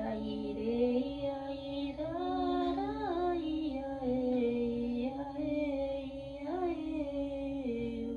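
A high voice singing a slow, gliding melody over the steady, sustained ringing of singing bowls.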